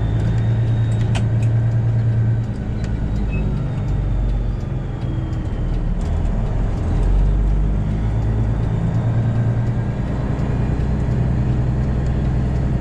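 Semi truck's Detroit Diesel 12.7 L engine running steadily at low speed as the truck creeps along. Its low hum eases about two and a half seconds in and picks up again around seven seconds.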